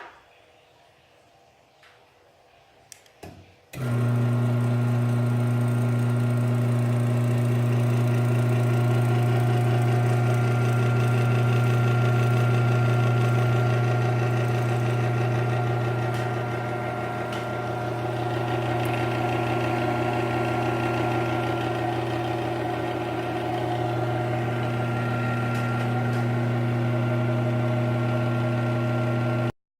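Garage door opener motor humming steadily without lifting the door, a low hum with a faint buzz above it. It starts about four seconds in and cuts off suddenly near the end. The hum is the sign of a failed opener that cannot lift the door.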